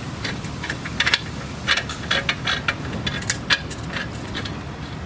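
Irregular metallic clinks and rattles as the hub-assembly bolts are passed through the steering knuckle and their threads started by hand, over a steady low hum.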